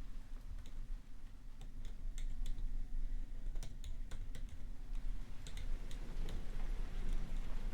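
Computer keyboard typing: irregular keystrokes in short runs, over a steady low rain hiss.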